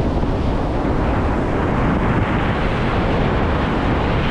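Sea surf washing on the shore, mixed with wind buffeting the microphone: a steady rush of noise with a heavy low rumble.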